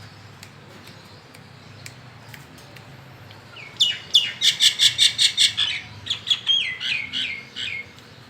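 A caged songbird singing. About four seconds in it starts a fast run of short, sharp, falling notes, about six a second, then slows into a series of falling notes for a few more seconds.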